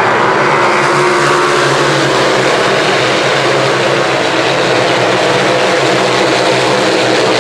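Racing superbike engines at high revs: a loud, dense drone of many overlapping engine notes.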